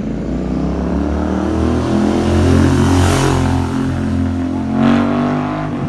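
Royal Enfield Interceptor 650's parallel-twin engine revving through a Red Rooster aftermarket exhaust with the dB killers removed. The revs climb over the first couple of seconds and hold, a quick blip comes near the end, and then the sound stops suddenly.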